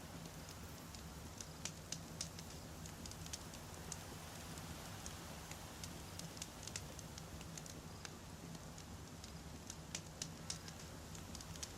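Wood fire burning, with frequent irregular sharp crackles and pops from the burning firewood over a steady low rumble; a few louder pops come in clusters, about two seconds in and again near ten seconds.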